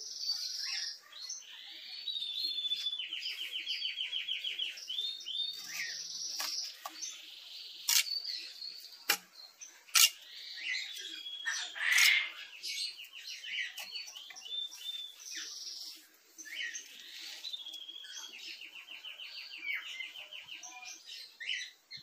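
Wild birds chirping and calling, with a fast, evenly repeated trill sung twice. A few sharp clicks come in the middle.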